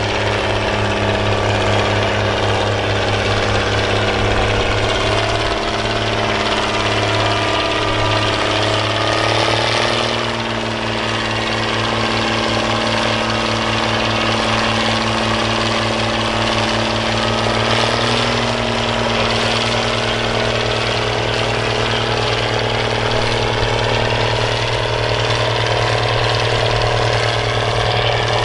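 Tractor engine running steadily under load on a pull track, its pitch stepping up about ten seconds in and again a little past halfway.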